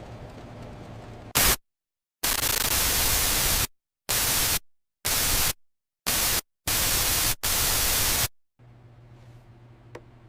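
White-noise static cutting in and out in seven abrupt bursts of uneven length, with dead silence between them, a glitch-like static effect. It gives way to a faint low hum with a few light ticks.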